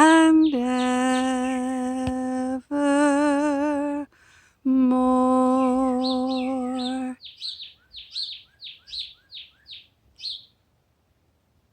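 A woman's voice holding long sung notes, three in a row with short breaks, the last one fading out about seven seconds in. Overlapping its end, a small bird chirps a run of short falling chirps, about two a second, which stops after about four seconds.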